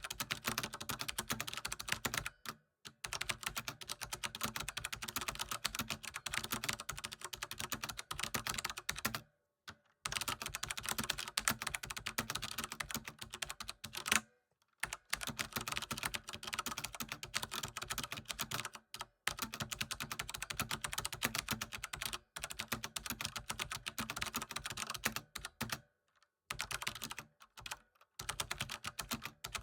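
Fast, continuous typing on a computer keyboard, a dense run of key clicks broken by several short pauses of under a second.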